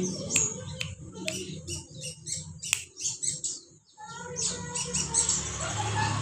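A songbird calling in a run of short, sharp chirps, breaking off briefly a little before four seconds in, then chirping again.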